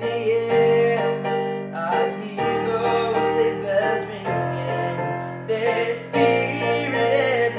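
Piano music: held chords, changing about every two seconds.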